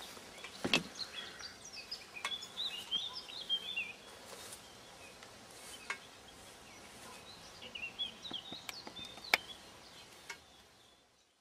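Small birds twittering in short, quick chirping phrases, in two spells, with a few faint sharp clicks.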